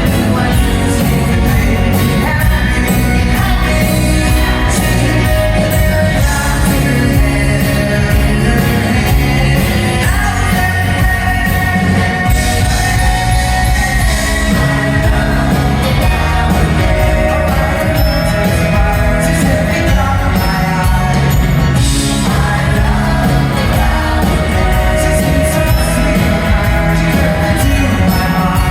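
Live band performance of a 1960s pop song: singing over a full band accompaniment.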